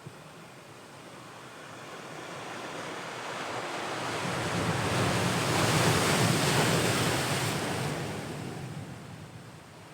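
An ocean wave breaking and washing on the shore: the surf swells up over a few seconds, peaks around the middle, then dies away.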